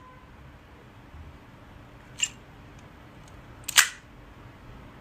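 Two short sharp clicks over faint room noise, one about two seconds in and a louder double click near four seconds.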